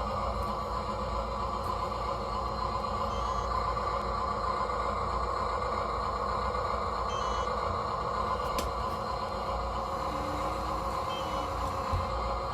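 RC construction models (excavators, dump trucks and a loader) working: a steady whine of their small electric motors and gearing, with faint short beeps about every four seconds.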